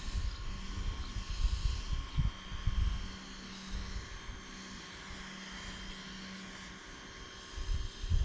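A low outdoor rumble that surges irregularly for the first three seconds and again near the end, over a faint steady hum.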